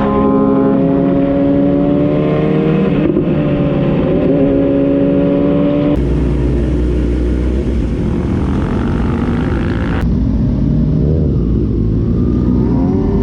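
Motorcycle engine running under way, its pitch rising and falling a little, with wind and road noise. About six seconds in the sound changes abruptly to a rougher low rumble under heavier wind noise.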